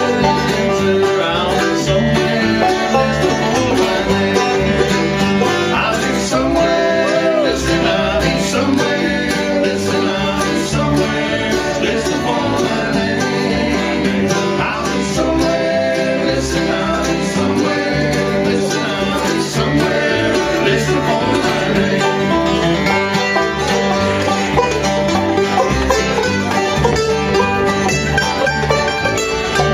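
Bluegrass gospel band playing a song live on acoustic plucked strings, with banjo and guitar, carrying on steadily without a break.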